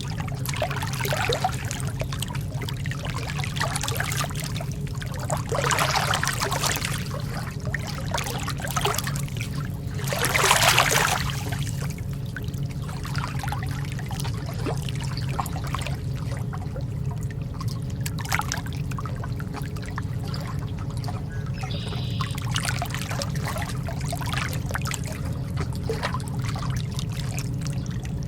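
Lake water lapping and trickling against the shore in small irregular splashes, one louder splash about ten seconds in, over a steady low rumble.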